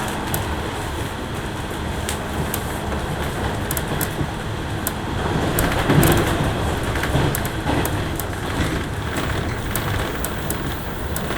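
JR West 103 series electric commuter train running at speed: a steady rumble of wheels and motors, with scattered sharp ticks and a louder swell about six seconds in.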